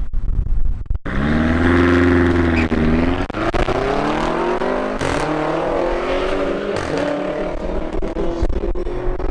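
A BMW X5M's twin-turbo V8 and a BMW M240i's turbocharged straight-six at full throttle in a drag-race launch. About a second in the engine note becomes loud and climbs, then drops and climbs again at each upshift as the cars pull away.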